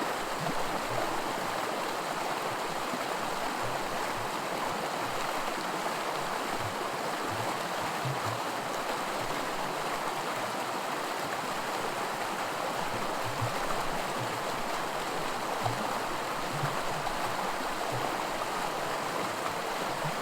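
Small creek riffle of miniature white water, rushing and gurgling steadily over rocks.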